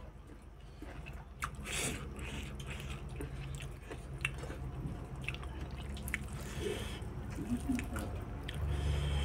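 A person chewing rice, with wet mouth smacks and scattered small clicks, and fingers squishing rice on a metal plate. A low steady hum runs underneath and gets louder near the end.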